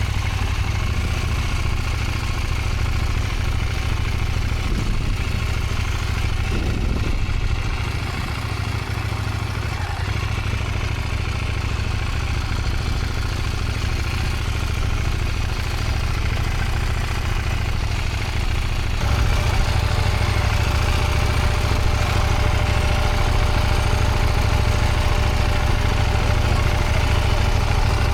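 Motorcycle engine running at low speed in first gear while the bike moves off slowly on the clutch. It gets louder about two-thirds of the way in, with a steady whine joining the engine note.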